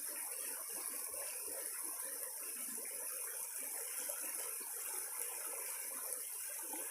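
Creek water running steadily, a continuous even rush of flowing water.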